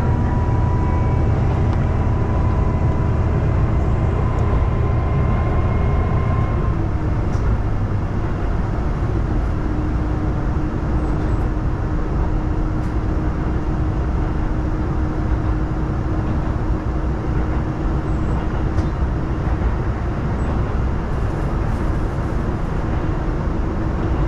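Diesel railcar running steadily, a continuous rumble of engine and wheels on track. The heavy low engine note eases about six seconds in, and a steady hum joins from about nine seconds.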